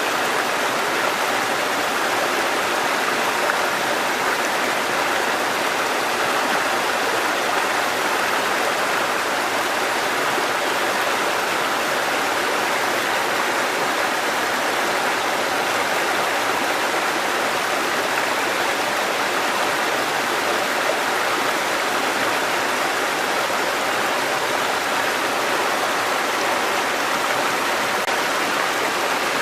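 Water cascading over rocks in a mountain stream, a steady unbroken rushing.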